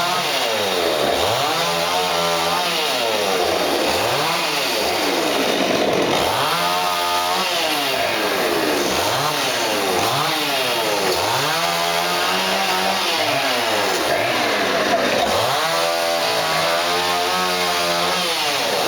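Chainsaw running, its engine revving up and dropping back over and over, roughly every two seconds.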